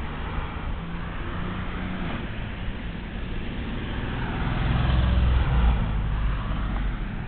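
Road vehicle noise, a steady rumble that grows louder about halfway through and eases off near the end.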